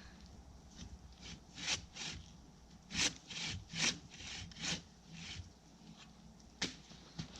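Hand saw cutting through a tree trunk, the blade rasping back and forth in short, uneven strokes of about two or three a second, with a short pause before a last stroke near the end.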